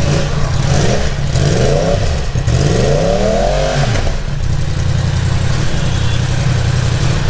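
Yamaha R1M's 998 cc crossplane inline-four engine revved twice, about one and two seconds in, the second rev longer, rising and falling in pitch. It then settles back to a steady idle.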